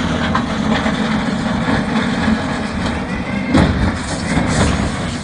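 A heavy vehicle running, with a steady low rumble and a few louder knocks about three and a half seconds in.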